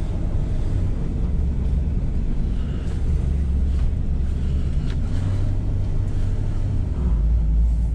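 Old car's engine running at low speed, heard from inside the cabin as the car rolls slowly across a lot. The low engine note grows louder about seven seconds in.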